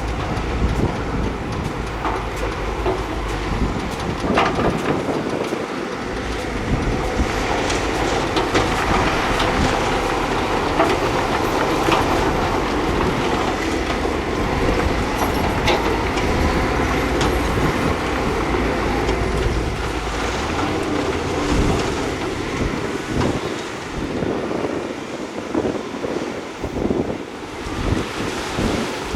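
Crawler bulldozer working: a steady diesel engine under the clanking of steel tracks, with sharp metallic knocks here and there.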